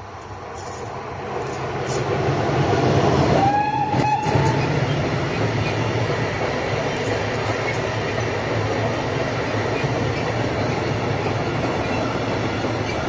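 A train approaches and passes close by. It grows louder over the first two seconds, then holds a steady rumble and rattle of wheels on rail. A short high tone that bends slightly in pitch sounds about three and a half seconds in.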